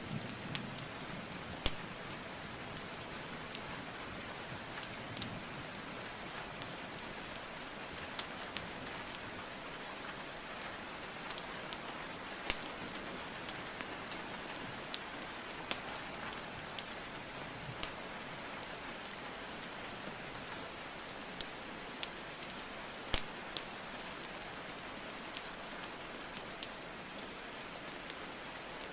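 Steady rainfall with scattered sharp crackles and pops from burning wood logs; the loudest pops come about two seconds in and again near the end.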